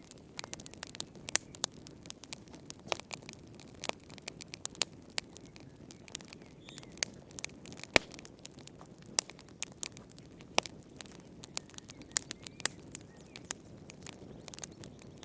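Wood fire crackling in a fireplace: irregular sharp pops and snaps over a soft, low, steady rush, with the loudest pop about eight seconds in.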